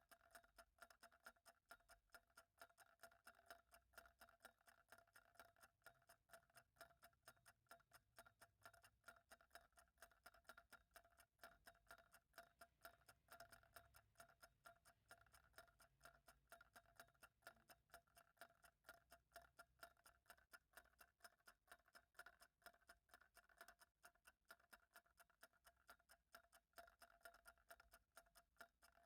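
Faint, steady clock ticking at an even pace.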